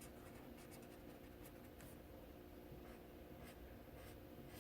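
Faint scratching of colouring strokes on paper, in short, irregular strokes, over a low steady room hum.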